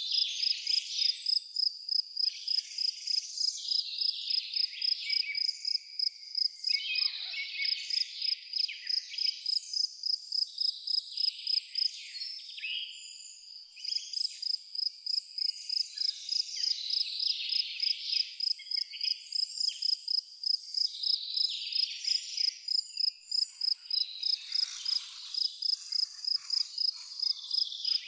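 A cricket chirping in a steady rhythm, about two to three high chirps a second, breaking off for a couple of seconds about halfway through, over a chorus of other high insect or bird calls.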